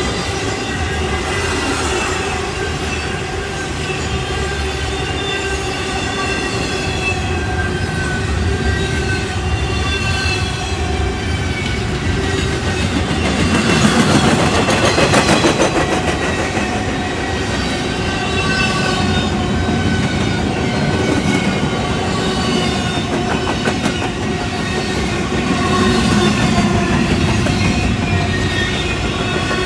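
Freight train rolling past, its steel wheels clacking over the rail joints, with wavering high-pitched wheel squeal. The clacking is loudest about 14 seconds in and swells again near the end.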